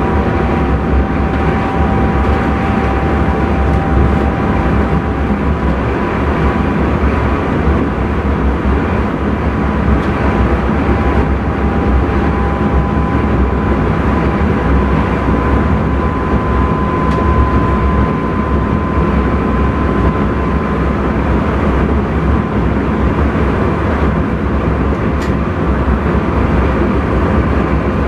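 Steady running noise heard inside the driver's cab of an intercity train under way: a constant low rumble of wheels and running gear on the track, with a faint steady whine over it.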